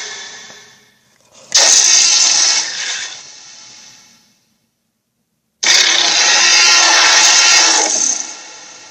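Sound effects from a Puss in Boots dragon toy, heard as separate buzzy bursts. Each starts sharply and fades out, one a second and a half in and another just before six seconds, with dead silence between.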